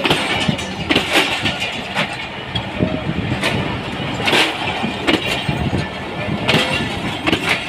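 Train rolling past, its wheels knocking over rail joints at an uneven pace over a steady rumble.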